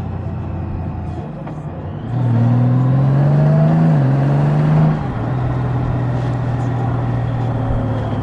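Honda Goldwing's flat-six engine under load. It runs steadily, then pulls harder from about two seconds in with a rising note, drops briefly near four seconds as it shifts up, climbs again, and eases off sharply about five seconds in to a steady cruise.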